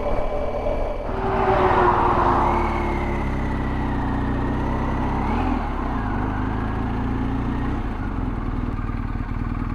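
Motorcycle engine running steadily under way, its pitch dipping and recovering briefly about halfway through.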